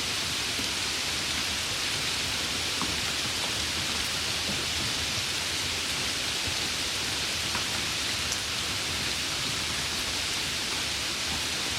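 Steady rain: an even, bright hiss with faint scattered drop ticks.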